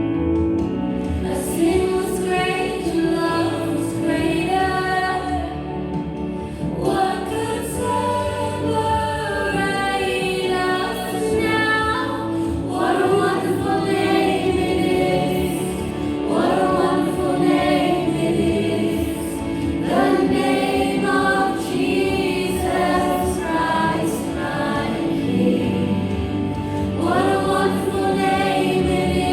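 Christian worship song sung by a group of voices in harmony over steady instrumental backing.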